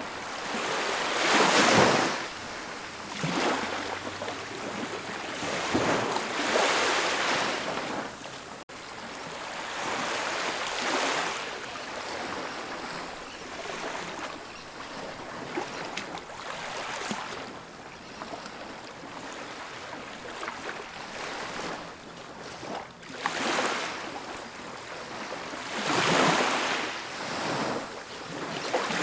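Ocean waves breaking on a beach: surges of surf swell and fade every few seconds over a steady hiss of wash. The loudest surge comes about two seconds in, and another strong pair comes near the end.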